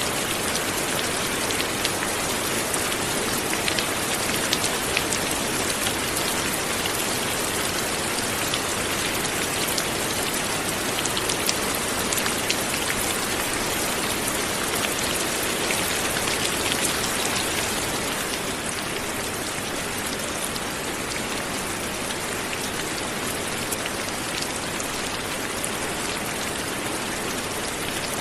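Light, steady rain falling, a dense even patter of drops with small individual drop ticks, easing a little about eighteen seconds in.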